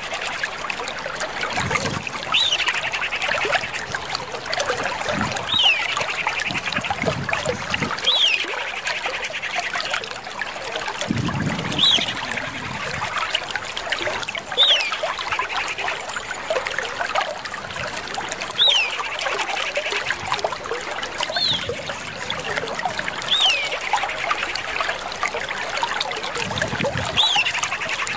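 Common iora calling: a sharp descending whistle, repeated about every three seconds and each followed by a short buzzy trill, over a steady noisy hiss with a few low thumps.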